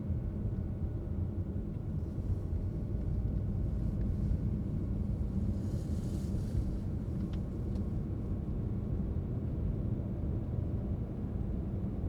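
Car driving along a road: a steady low rumble of tyres and engine, with a brief rise of hiss about six seconds in.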